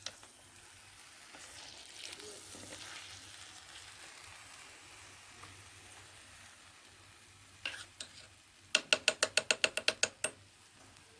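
Faint sizzling of meat cooking in a clay tajine over charcoal. Near the end, a quick run of about a dozen sharp ringing clinks, a small spoon tapped against a dish.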